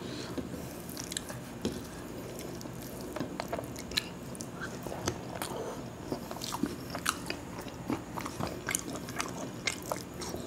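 Close-miked eating by hand: chewing of khichuri and fried fish, with irregular small clicks and crunches several times a second and the soft squish of fingers mixing rice on a glass plate.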